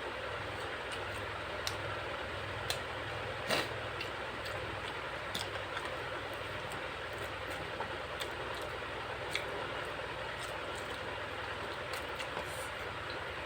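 A person eating: scattered short clicks and smacks, a dozen or so at uneven intervals, the loudest about three and a half seconds in, over a steady background hiss.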